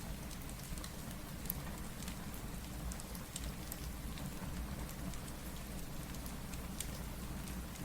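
Steady rain falling, with scattered sharp crackles and pops throughout, as from a wood fire.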